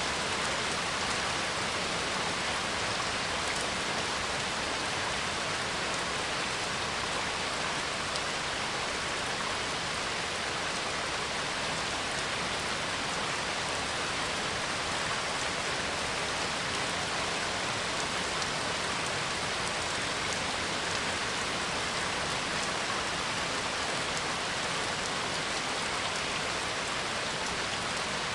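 Steady rain falling, an even hiss of many drops with no single drop or thunder standing out.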